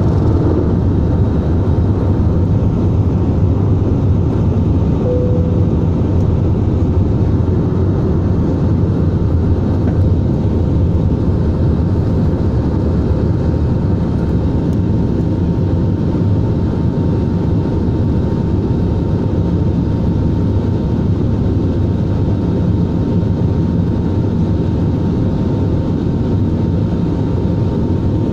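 Airbus A320 in its take-off, a loud, steady rumble of engine and airflow noise with a thin, steady whine above it.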